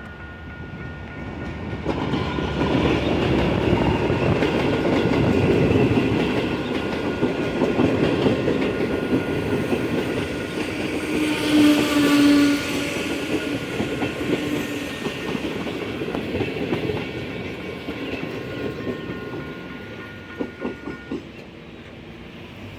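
Train passing over a level crossing. A heavy rumble with wheels clicking over the rail joints builds about two seconds in and fades away near the end. The horn sounds briefly about halfway through, while the crossing's warning signal rings with a steady tone that stops shortly before the end.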